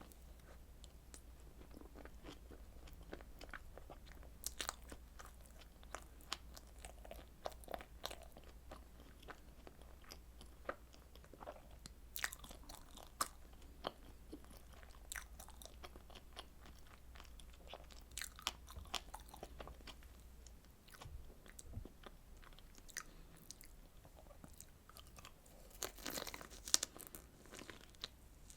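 Close-miked eating of strawberry desserts: bites and chewing with many short, crisp crunches and crackles, most dense near the end.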